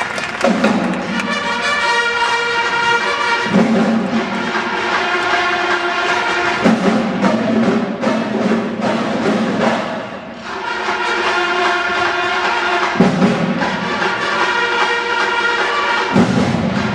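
High school marching band playing: sustained brass chords, with a strong low accent every few seconds and a short drop in volume about ten seconds in.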